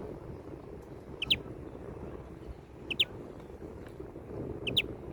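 European greenfinch calling: three short chirps at an even pace, each a quick falling note with a brief lead-in.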